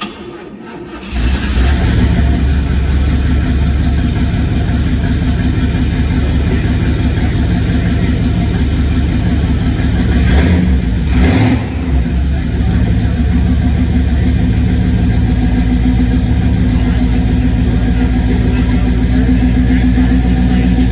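1947 International truck engine cranking for about a second, catching and then running steadily, tried after its carburetor was set and its intake manifold gasket replaced. About ten seconds in, the running sound changes briefly.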